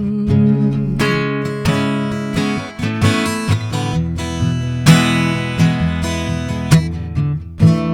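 Acoustic guitar strummed in a steady rhythm, an instrumental passage of a slow folk-style song with no singing.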